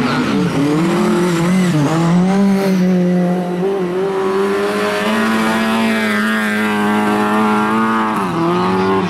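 Lada 2107 race car's four-cylinder engine held at high revs while sliding through dirt-track bends. The engine note dips sharply about two seconds in and again near the end, then climbs back each time.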